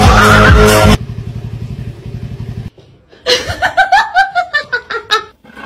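Music cuts off about a second in, followed by a low steady motor-like drone. Then comes about two seconds of rapid, high-pitched laughing in quick bursts.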